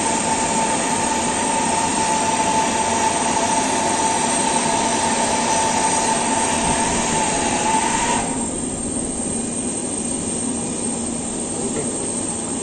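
Steady jet-turbine running from the Antonov An-124 cargo aircraft: a loud rushing noise with a high whine held on one pitch. About eight seconds in, the whine and the upper hiss cut off abruptly, leaving a lower rumble.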